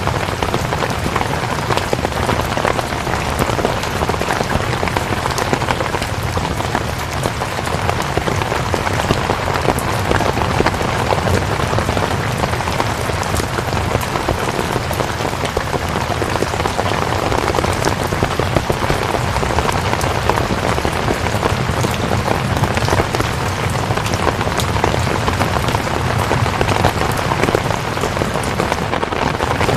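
Steady rain: an even hiss with many individual drops ticking through it.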